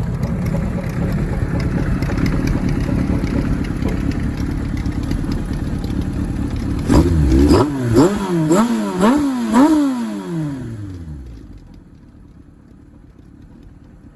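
Kawasaki Zephyr 750 air-cooled inline-four idling through a Nitro Racing Grenade titanium silencer with its baffle removed, then about five quick throttle blips a few seconds in. The revs fall back and the sound dies away near the end.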